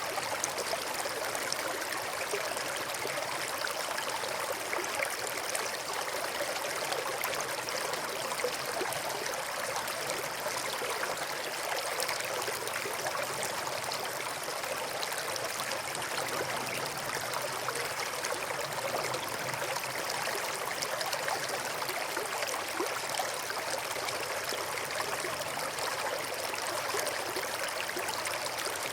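River water flowing over and between rocks: a steady rushing and burbling without change.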